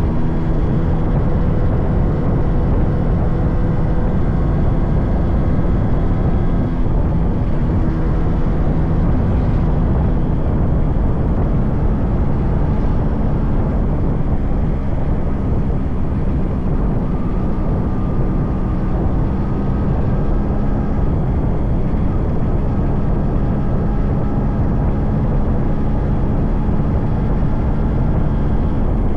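Yamaha RX100's 98cc air-cooled two-stroke single-cylinder engine running under way at a fairly steady speed, its note drifting slightly up and down.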